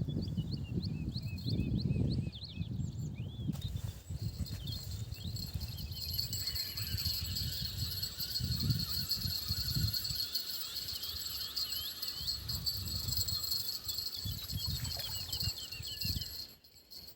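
Songbirds singing outdoors: many quick, repeated short chirps, over a steady high whine and a low, uneven rumble. The sound drops away abruptly near the end.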